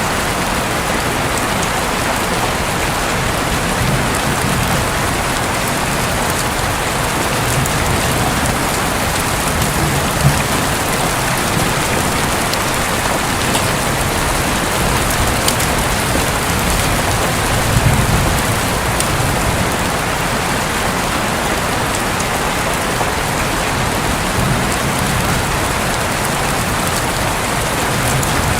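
Steady rain falling on a roof, with individual drops ticking now and then. A low rumble of distant thunder swells faintly every several seconds.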